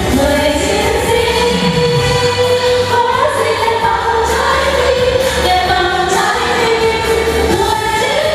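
Vietnamese song sung with long held notes over a backing track with a steady bass.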